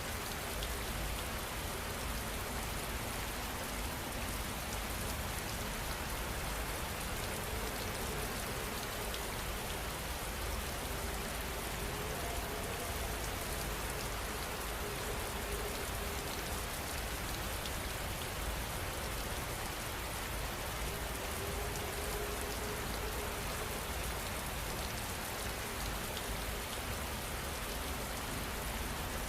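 Steady heavy rain falling, an even, unbroken wash of drops hitting surfaces.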